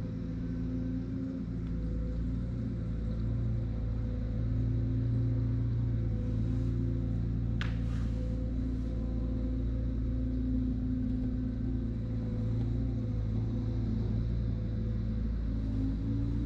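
Skid steer engine running steadily, swelling a little in level as it works, with one sharp metallic click about halfway through.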